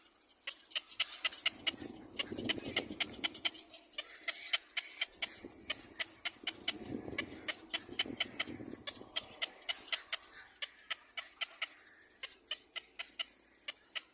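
A baby bird's begging calls: a rapid, unbroken series of short, sharp chirps, about three a second.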